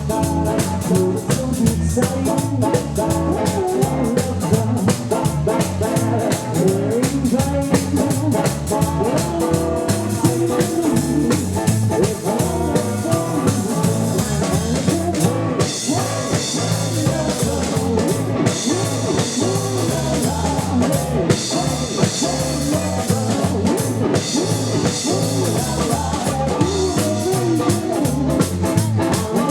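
Live rockabilly band playing: double bass, electric lead guitar and a drum kit keeping a steady beat.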